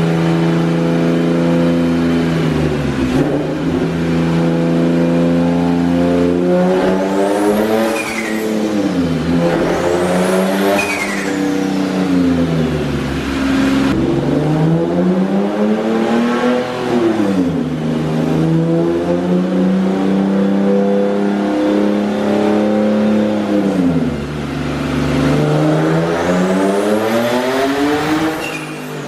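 Single-turbo Infiniti G37 coupe's 3.7-litre V6 revving hard on a chassis dyno, its pitch climbing and then dropping back about five times. A high whistle sweeps up and back down several times with the revs.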